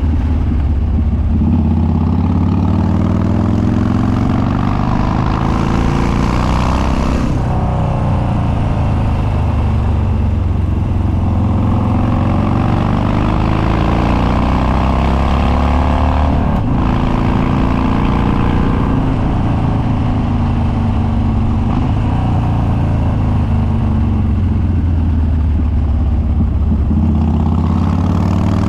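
Harley-Davidson Dyna Street Bob's Twin Cam V-twin running through custom upswept dual exhaust with no baffles, very loud and open. The engine pitch climbs under acceleration, breaks at a gear change about seven seconds in, climbs and eases off again, with another shift near seventeen seconds.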